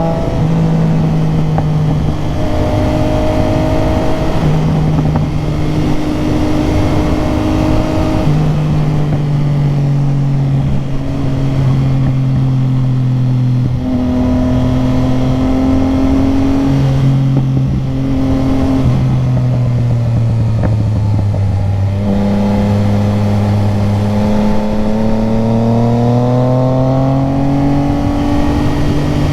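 Motorcycle engine running under way, its pitch gliding up and down and stepping abruptly several times as the throttle and revs change.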